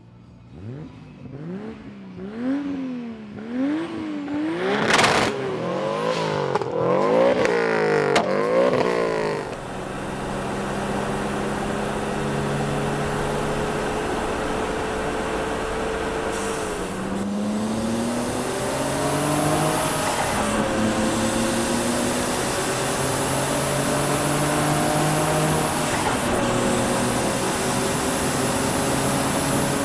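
Car engine revved hard in quick repeated throttle blips for the first several seconds, then held at high revs with slow rises and falls in pitch and a brief drop about halfway through.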